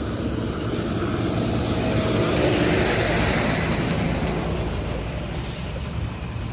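Motor vehicle engine running nearby, with a rushing noise that swells to its loudest about halfway through and then fades.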